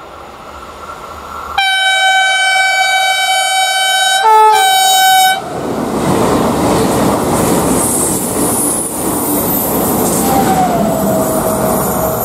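Railjet express train sounding its horn, one long note of about three and a half seconds that briefly shifts pitch near its end, then passing at speed with a loud rush of wheel and air noise.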